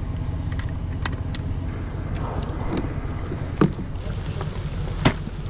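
Mercury 9.9 hp outboard motor running steadily as the inflatable skiff moves along, with wind noise on the microphone and a few sharp knocks.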